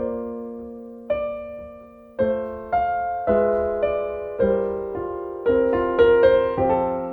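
Background music: slow, gentle piano, with chords struck about once a second and left to ring and fade.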